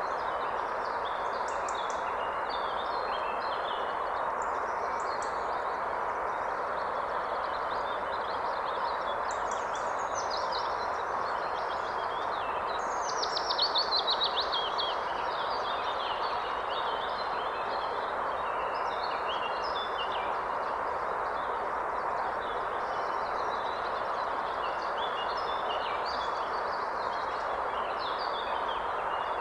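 Steady rush of a river or stream with many songbirds singing and chirping over it; about halfway through, one bird gives a loud, fast trill that falls in pitch.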